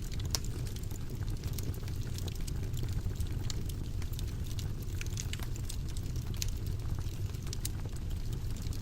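Wood fire burning in a fireplace: a steady low rumble of flames with irregular, sharp crackles and pops scattered throughout.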